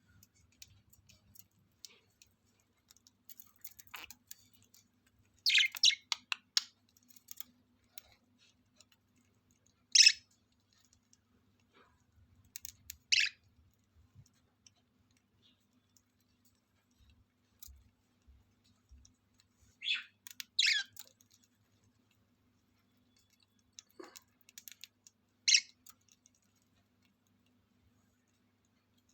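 Lovebirds giving short, high-pitched chirps, a few seconds apart, with faint clicking in between.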